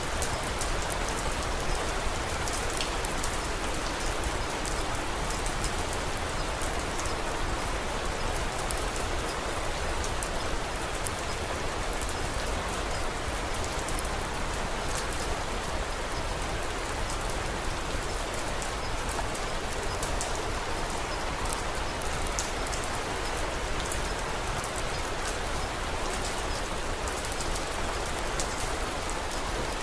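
Steady rain falling in an even, dense patter, with many small sharp ticks scattered throughout.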